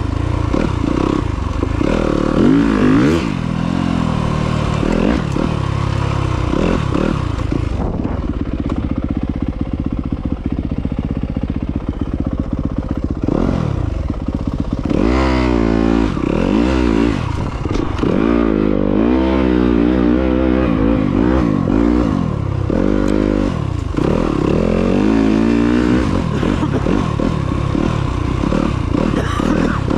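Off-road motorcycle engine being ridden along a trail, the revs rising and falling again and again with the throttle, holding steadier for a few seconds about a third of the way in.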